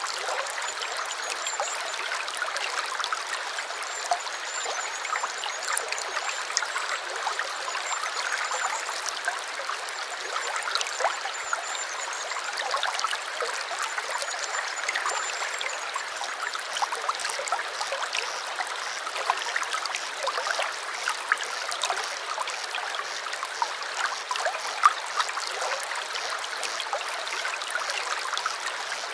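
Shallow stream babbling and trickling over stones: a steady splashing rush dotted with small droplet ticks.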